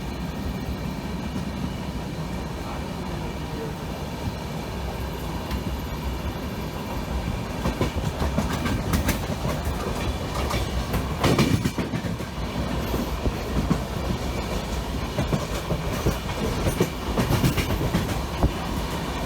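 Indian Railways passenger train running: a steady low rumble of the coaches, then from about eight seconds in irregular clacks and knocks of the wheels over rail joints, loudest a little past the middle.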